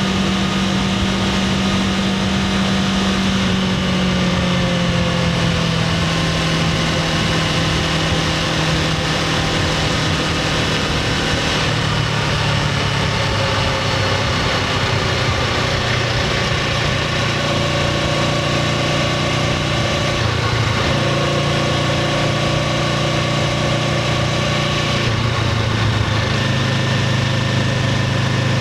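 Honda CBR500R's parallel-twin engine running through its stock exhaust at a fairly steady pitch. The pitch drifts slowly and shifts in small steps a few times.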